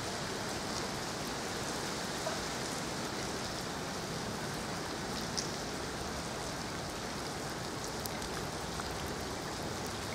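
Rain falling steadily: an even hiss with a few faint drop ticks.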